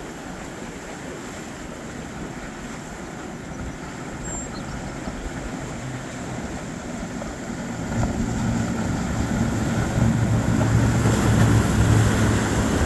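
Boat engine drone passing close by in the inlet, growing steadily louder over the second half, with wind and water noise beneath it.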